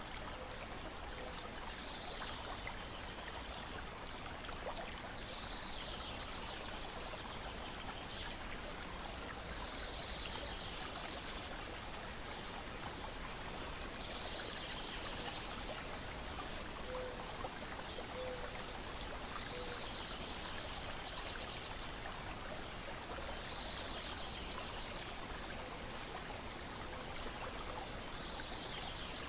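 Steady lapping and trickling water, with a bird singing a short, high phrase about every four seconds.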